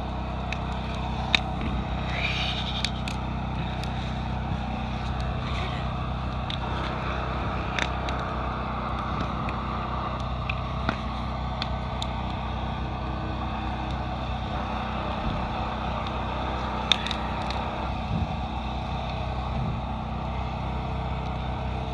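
Portable generator engine running steadily, with scattered light clicks and taps over it.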